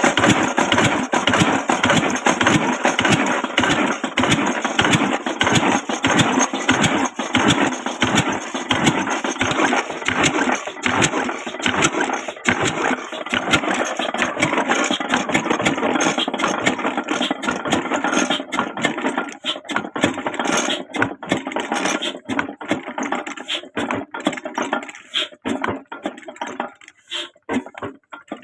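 Old diesel engine on a tube well running with an even chug of firing beats, then slowing down in the last ten seconds or so, the beats spreading out and fading until it stops.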